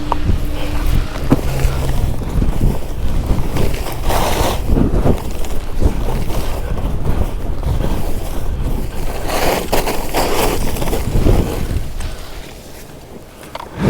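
Wind buffeting the microphone in a steady low rumble while skis hiss and scrape over snow, swelling twice, then quietening near the end.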